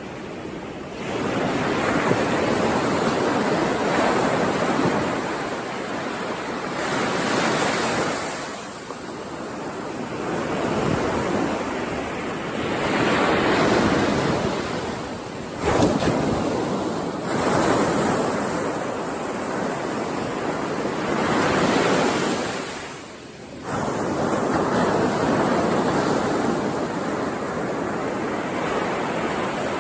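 Ocean surf breaking on a shore, the waves swelling and falling back every few seconds. One wave comes in abruptly about halfway through.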